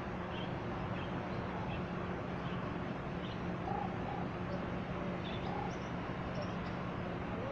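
Birds in an aviary calling: scattered short high chirps and a few brief lower calls, over a steady low hum.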